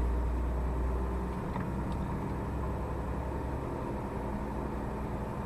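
Heavily loaded lorry's diesel engine running with road noise, heard from inside the cab; the deepest rumble eases off about a second and a half in.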